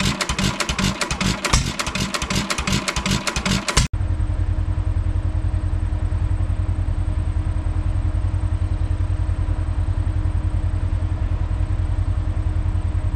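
Single-cylinder Hercules 1 3/4 hp Economy stationary engine running on an open exhaust pipe with no muffler, a fast even string of sharp exhaust beats; the owner says it is running really good. About four seconds in the sound cuts off abruptly, giving way to a steady low drone for the rest.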